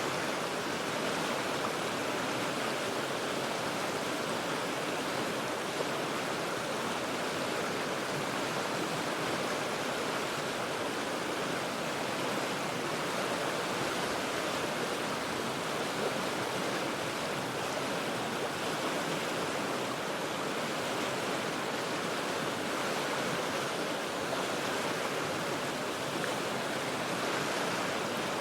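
The Cheat River flowing, a steady rushing of water with no let-up.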